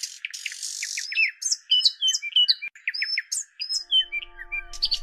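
Birds chirping and whistling in quick short calls and glides; about four seconds in, held musical notes with a bass line come in beneath them.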